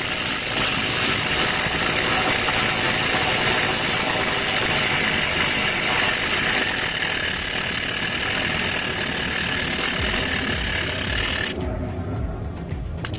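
Small homemade jet engine running: a loud, steady rushing noise that cuts off suddenly near the end, leaving only low thumps.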